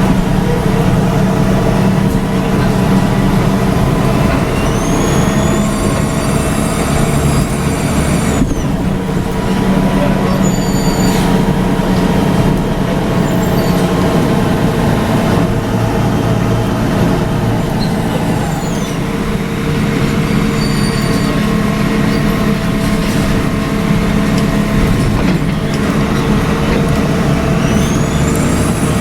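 Volvo B7RLE city bus's rear diesel engine running under way, heard from the back seat, with a high whistle that rises and falls twice, about five seconds in and again near the end. The uploader suspects the whistle comes from the turbo.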